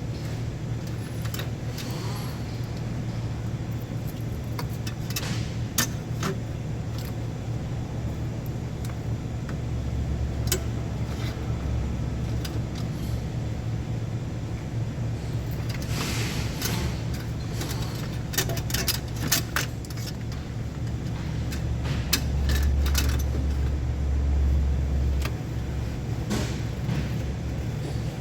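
Metal tools and engine parts clinking and clicking off and on during hands-on engine work, over a steady low engine-like hum that swells twice.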